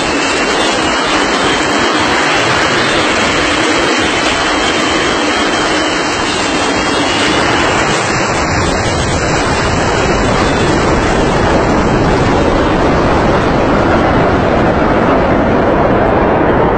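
Loud, steady roar of an airplane's engines, a dense rushing noise without a clear tone, its hiss easing slightly near the end.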